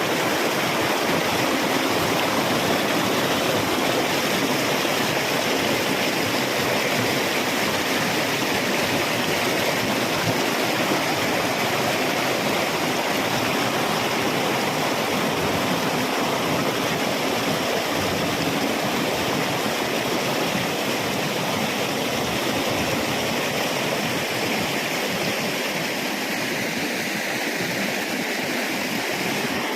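Flowing water running steadily, an even rushing hiss with no breaks or changes.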